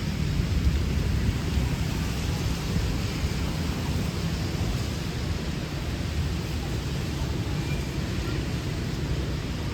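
Steady rain hiss with a deep low rumble underneath, swelling slightly about a second in.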